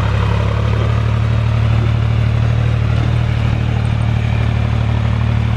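John Deere tractor engine running steadily at an even pitch, with a constant low drone.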